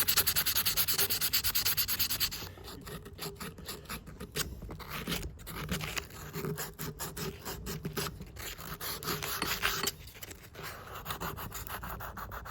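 Sandpaper rubbed by hand over the steel parts of Felco No. 2 pruning shears in quick back-and-forth strokes to take off rust. The strokes are loudest and fastest for about the first two seconds, then go on lighter and less even.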